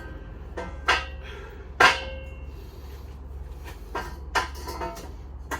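Steel box-section bench top being set onto the welded leg frame: a series of metallic clanks, the loudest about two seconds in, with a short metallic ring after it.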